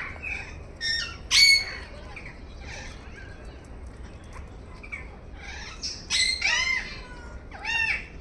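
Birds calling: a string of short squawks and chirps, the loudest about a second and a half in, with a run of quick calls from about six seconds in.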